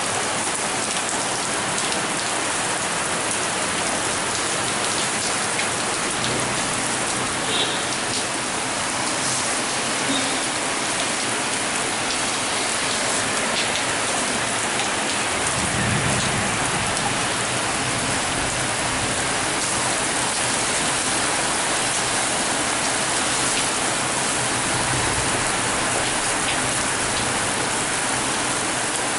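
Heavy rain falling steadily, a dense even hiss, with a low rumble swelling briefly a few times, most strongly about halfway through.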